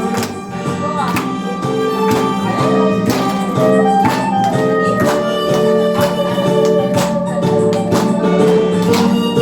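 Solo harmonica playing a melody in A# over an accompaniment with a steady drum beat.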